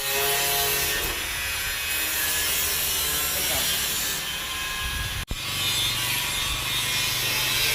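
Corn sheller driven by a 26 HP Dong Feng diesel engine running: a steady mechanical hum under a continuous rasping, grinding noise. It cuts out for an instant about five seconds in, then carries on as before.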